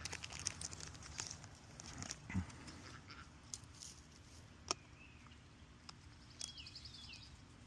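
Quiet scene of scattered light clicks and rustles from cards being handled and sleeved, with a short bird chirp and trill near the end.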